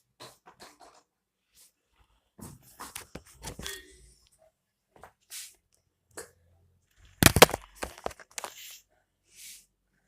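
Scattered light knocks and rustles from handling a toy RC buggy, with a loud cluster of sharp knocks about seven seconds in; no steady motor sound.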